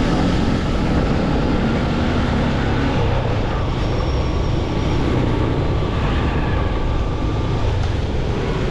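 Motorcycle riding in city traffic: steady engine and road noise with surrounding traffic.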